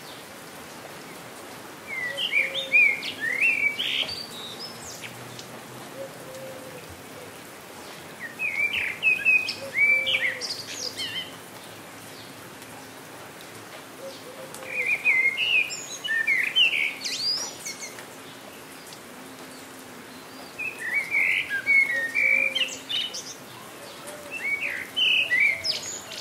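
A songbird singing short phrases of quick, sweeping chirps, five times about six seconds apart, over the steady patter of light rain.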